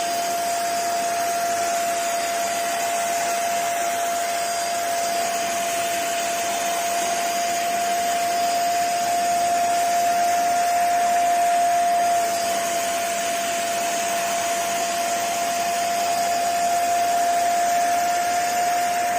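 Deerma x Xiaomi vacuum cleaner running steadily, its motor giving a constant high whine over a rush of airflow. The sound grows a little louder in the middle and drops back about twelve seconds in.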